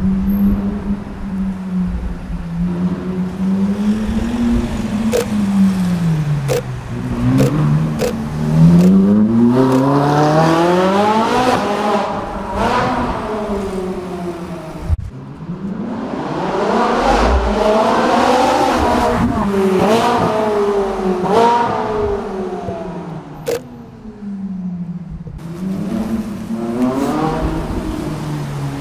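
Ferrari 458 Italia's V8 with an F1-style exhaust revving and accelerating, its pitch climbing in steps with quick upshifts, in several runs. A few sharp cracks come between revs early on.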